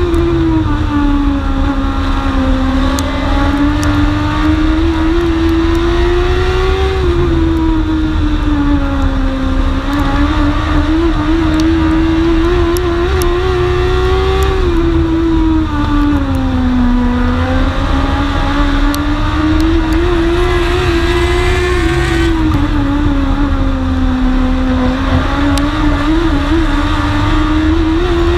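Dwarf race car's engine heard from on board at racing speed, its pitch sagging and climbing again about every seven seconds as it slows for the turns and accelerates down the straights, over a heavy low rumble with a few sharp clicks.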